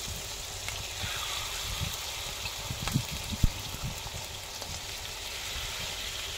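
Skewered seekh kebab meat sizzling steadily in shallow oil in a pan, with a couple of dull knocks about three seconds in as more metal skewers are laid into the pan.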